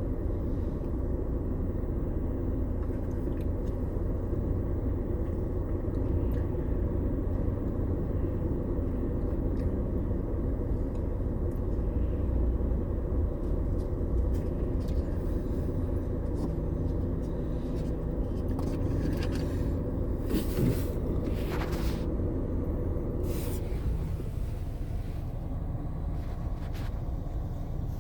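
Steady low rumble of a car driving, heard from inside the cabin, with a few light ticks about twenty seconds in.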